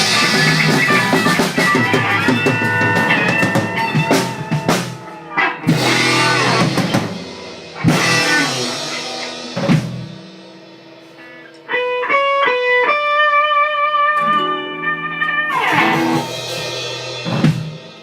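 Rock band with electric guitars and a drum kit playing the closing bars of a song. The full band breaks into separate accented hits that ring out, then a few quick guitar notes are held and left to ring, ending on a final hit.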